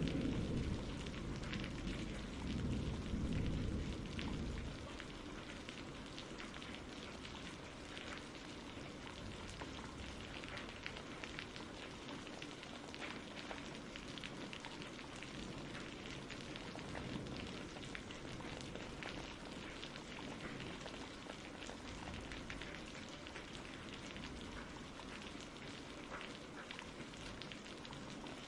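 Steady rain, with a low rumble of thunder that dies away about four seconds in.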